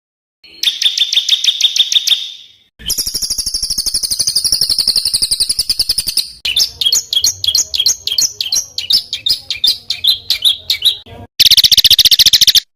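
Small songbirds' rapid, harsh repeated notes and trills, edited as a run of separate clips that stop abruptly: a fast note series, then a long high trill, then a choppy chatter, then another fast high burst near the end.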